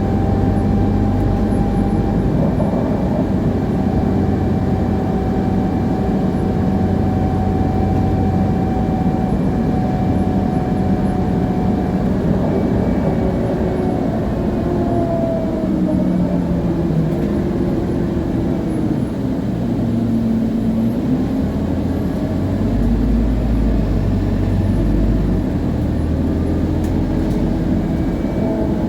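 Scania CN280UA city bus under way: its Scania DC9 diesel runs through the ZF Ecomat automatic gearbox, and the rear drive axle whines clearly. The axle whine holds steady, falls in pitch past the middle, then rises again near the end.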